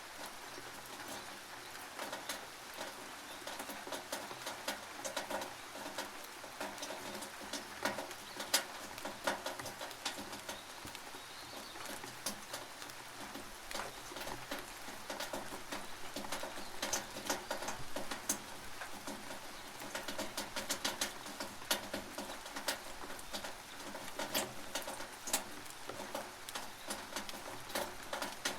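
Rain on a tin roof: a steady hiss with many irregular, sharp drips and taps striking the metal.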